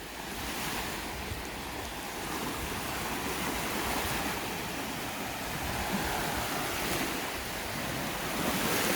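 Small waves washing on the lake shore in a steady wash of water noise that swells gently, with some wind on the microphone.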